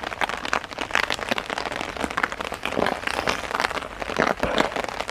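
Heavy rain pattering hard on a tarp overhead: a dense, irregular drumming of drops.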